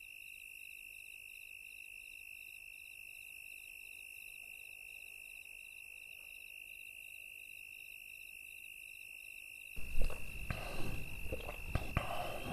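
Night-time chorus of chirping crickets: a steady high trill with rapid pulsing chirps above it. About ten seconds in, a few louder knocks and rustles of handling come in over it.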